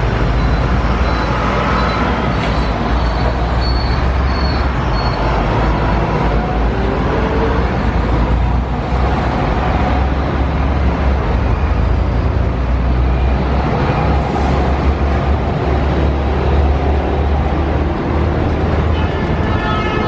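Road traffic and engine noise: a steady loud rumble of passing vehicles, with a horn-like tone sounding near the end.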